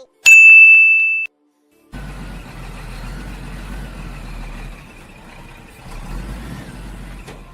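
A loud electronic beep lasting about a second, then, after a short silence, a steady rumbling vehicle-engine noise from about two seconds in.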